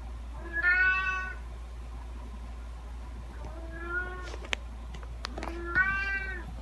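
Domestic cat meowing three times, the first and last calls loudest, with a few sharp clicks between the second and third.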